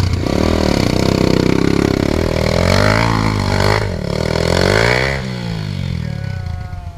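Trail dirt bike engine revving hard under load on a steep climb, its pitch surging up and dropping back several times as the throttle is worked. It fades away near the end.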